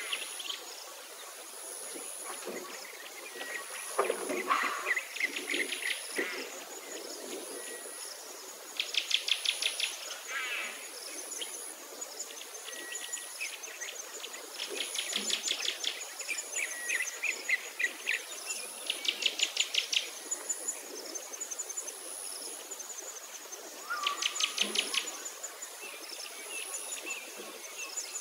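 Outdoor birdsong: rapid high trills about a second long, repeating every few seconds, over a string of short, thin, very high notes that repeat steadily.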